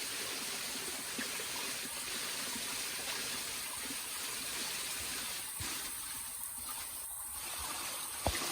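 Waterfall: a steady rush of falling and splashing water, thinning briefly a little after the middle, with a single sharp knock near the end.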